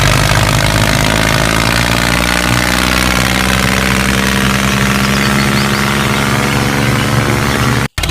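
Small DC electric motor running steadily at speed, a loud even hum-whine; it cuts off abruptly near the end.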